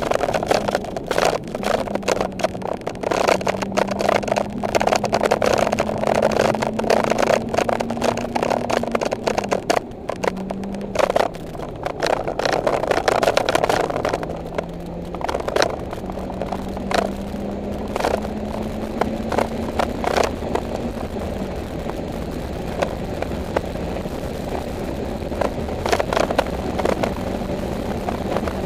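Mitsubishi Lancer Evolution X GSR's turbocharged 2.0-litre four-cylinder heard from inside the cabin at track speed. The engine note climbs under power and drops back about ten seconds in, climbs again and drops about twenty-one seconds in, then runs steadier and quieter. Frequent sharp clicks and knocks sound throughout.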